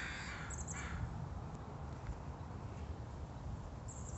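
A bird gives two harsh calls in the first second, then a steady low outdoor rumble carries on.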